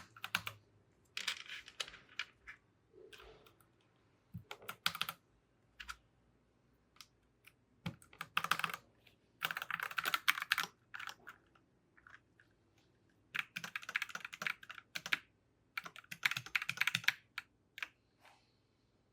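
Mechanical keyboard keys clacking in several bursts of rapid clicks, each a second or two long, with short pauses between.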